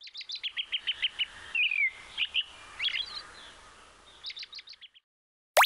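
A small songbird singing: quick runs of rapid chirps and a short downward-slurred note, fading out about five seconds in. Right at the end a short pop with falling pitch begins, the first of a regular series.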